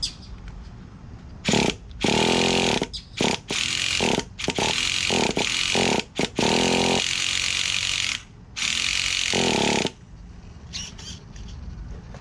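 Traxxas Nitro Rustler's small two-stroke nitro engine running, revved hard in repeated bursts of a second or two with short drops between, then quieter for the last couple of seconds.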